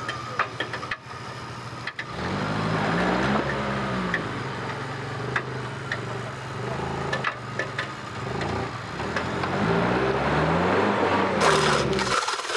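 Off-road vehicle's engine running and revving up and down, about ten seconds long, from about two seconds in until it drops away near the end. A few sharp clicks come before it starts.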